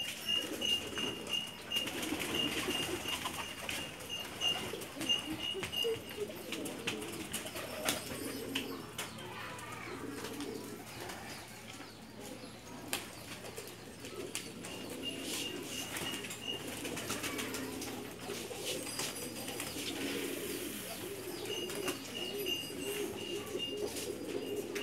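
A flock of racing pigeons cooing continuously, with occasional wing flaps. A high, rapidly repeated chirping comes and goes over it.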